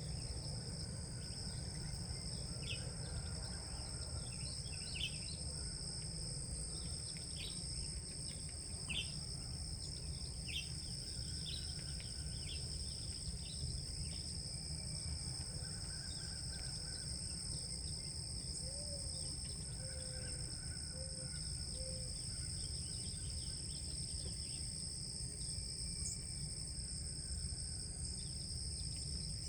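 Outdoor ambience: a steady high-pitched insect chorus, with many short bird chirps scattered through the first half and a few later, over a low steady rumble.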